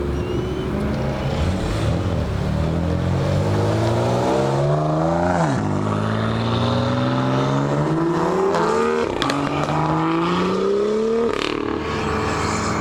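Car engine accelerating hard away, the pitch climbing through the revs and dropping sharply at three upshifts, about five and a half, nine and eleven seconds in.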